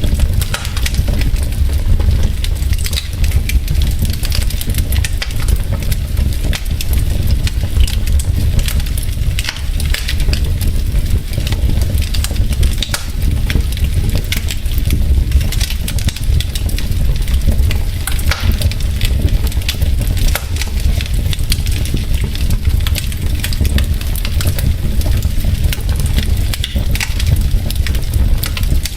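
Wood logs burning in a fireplace, crackling with many irregular sharp pops over a steady low rumble of the fire.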